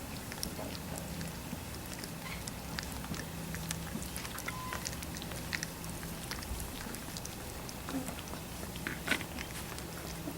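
Three-week-old Labrador retriever puppies stirring, with scattered small clicks and a few brief faint squeaks over a steady low hum.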